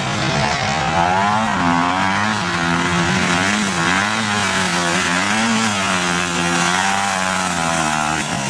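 Motocross motorcycle engines running on the track, their pitch rising and falling over and over as the throttle is opened and shut.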